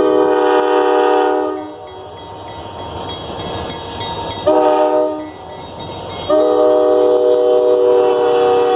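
Diesel locomotive air horn sounding for a road crossing: a long blast, a short blast about 4.5 s in, then another long blast from about 6.3 s, part of the long-long-short-long grade-crossing signal.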